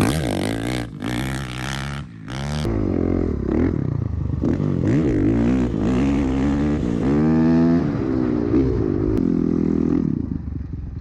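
Dirt bike engine revving hard as the bike runs up to and over a sand jump. The pitch climbs and falls repeatedly, with a brief dip about two seconds in, and there is wind noise on the microphone early on.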